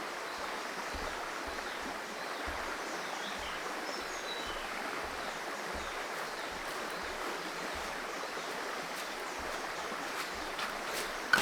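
Small forest creek running: a steady wash of flowing water, with a few faint high chirps midway.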